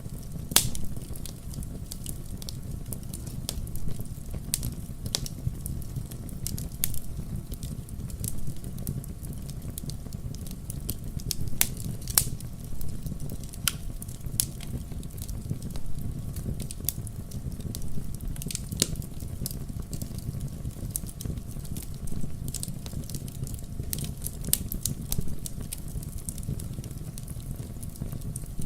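Wood fire burning in a fireplace, a steady low rumble with irregular sharp crackles and pops, a few louder snaps among them.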